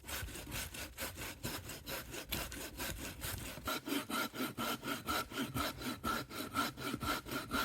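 Handsaw cutting through a fallen tree's wood in quick, even back-and-forth strokes. From about halfway a high ringing note sounds with each stroke.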